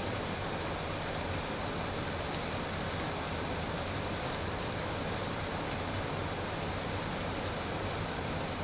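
Steady cockpit noise of a Beechcraft Premier I business jet in flight: rushing airflow with a faint even hum from its turbofan engines.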